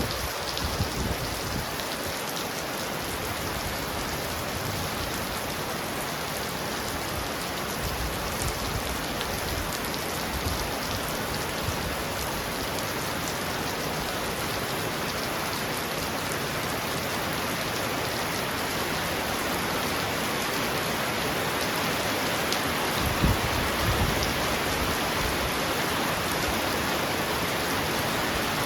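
Heavy rain falling steadily on a roof, an even hiss. About four-fifths of the way through comes a brief low rumble of thunder.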